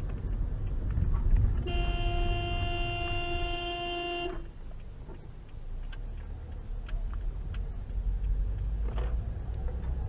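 Car horn held in one steady blast for about two and a half seconds, starting about two seconds in, over the low rumble of road and engine noise picked up by a dash cam.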